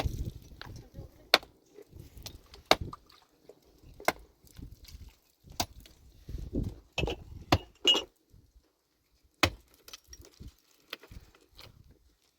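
Metal hand tool striking rock in sharp single blows, about one every second and a half, with three quicker blows about two-thirds of the way through.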